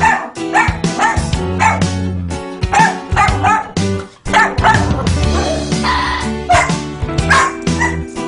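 Background music with a dog barking and yipping over it in short, repeated bursts.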